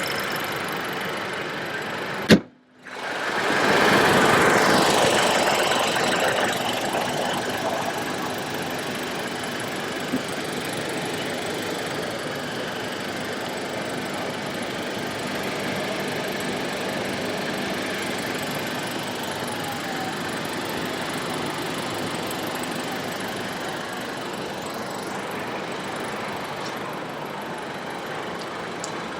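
Steady motor-vehicle noise, engine and road sound. A little over two seconds in there is a sharp click and a brief dropout. A louder vehicle sound then swells about four seconds in and fades over the next few seconds.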